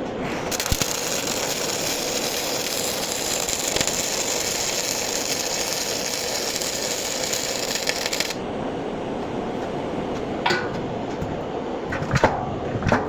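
MIG welding arc crackling and hissing steadily through a bead of about eight seconds, starting and stopping abruptly. A few sharp metallic clicks follow near the end.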